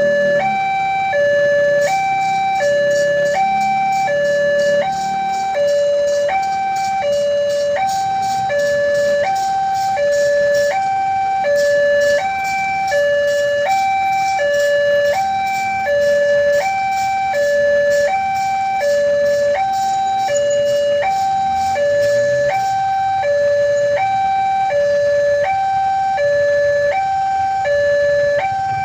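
Railway level-crossing warning alarm sounding a steady two-tone electronic signal, its high and low notes alternating about every half second, the warning that a train is passing. From about two seconds in until about twenty-two seconds in, a low rumble and a run of regular clacks from the wheels of an empty flatbed freight train crossing lie under it.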